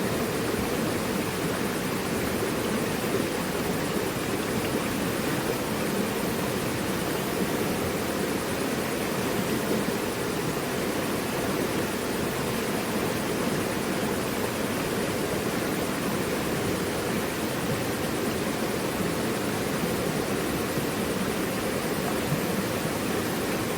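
Mountain river rushing steadily over rocks, an even, unbroken rush of water.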